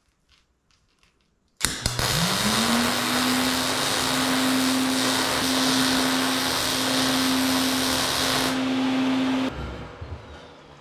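Electric angle grinder switched on about one and a half seconds in, its motor quickly spinning up to a steady hum, with loud grinding on steel. Near the end the grinding stops, then the motor is switched off and winds down.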